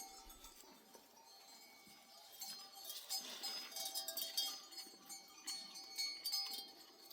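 Bells on a flock of sheep clinking and ringing as the animals move, growing thicker and busier from about two and a half seconds in.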